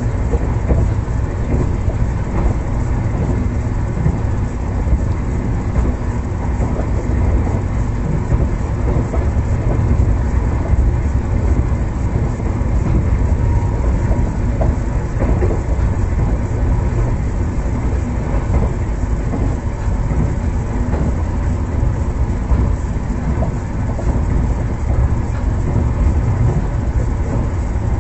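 Express passenger train running along the track: a steady low rumble of wheels and carriage, with light rattling over it.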